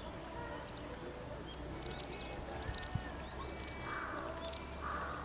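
Birds calling outdoors: short high chirps, often in pairs, repeating about once a second, with two harsher, lower calls near the end.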